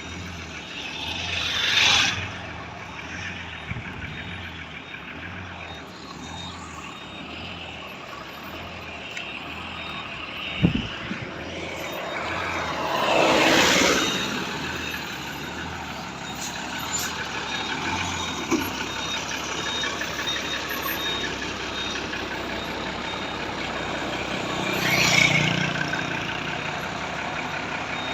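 Heavy truck engines running, with a low pulsing throb through the first part. Three loud rushing swells come about every eleven or twelve seconds, and there is a single sharp knock near the middle.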